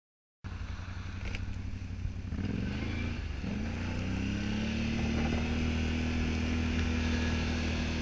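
Can-Am Outlander 570 XT ATV's V-twin engine running, starting abruptly about half a second in. Its revs climb between about two and four seconds in, then hold steady.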